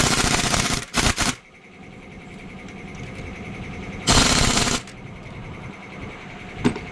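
Pneumatic impact wrench rattling in short bursts: one at the start lasting nearly a second, a quick double burst about a second in, and another in the middle, with a single click near the end.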